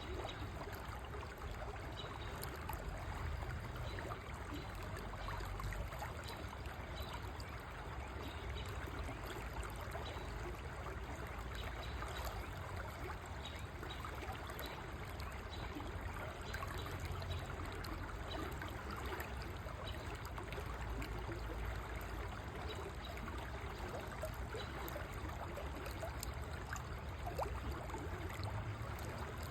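River water flowing steadily, a continuous rushing and trickling with a low rumble beneath it.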